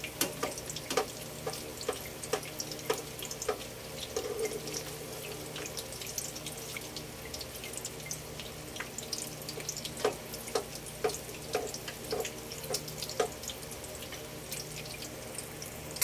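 Tuna-and-egg patties frying in hot cooking oil in a nonstick pan: a steady sizzle with frequent sharp pops and crackles of spitting oil.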